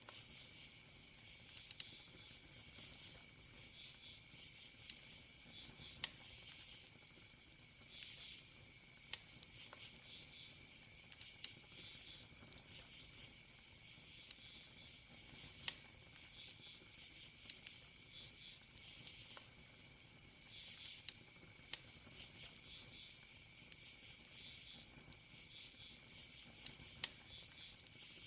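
Wood fire crackling with scattered sharp pops, over crickets chirping in short repeated runs and a steady high insect trill.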